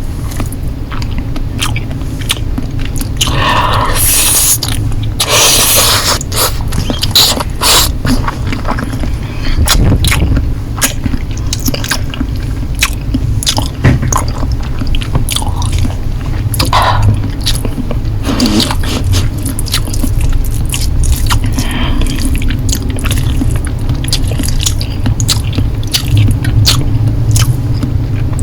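Close-miked eating of Korean noodles: chewing and biting with many small wet clicks throughout. Two longer, louder noisy stretches come a few seconds in.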